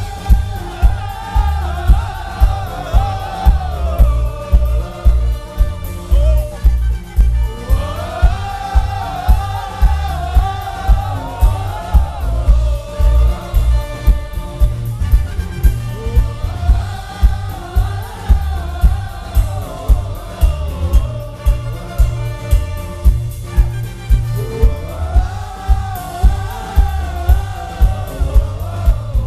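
Live band music: a strong bass-and-drum beat about twice a second under wordless group singing, with sung phrases that rise and fall and repeat about every eight seconds.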